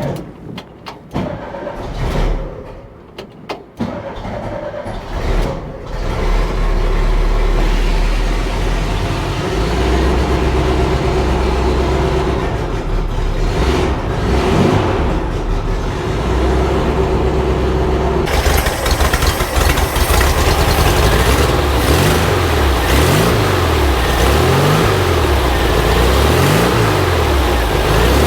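Air-cooled flat-four engine of a 1950s VW Bus, just rebuilt and re-timed, turning over in fits and catching about six seconds in, then running steadily. Near the end it is revved up and down several times.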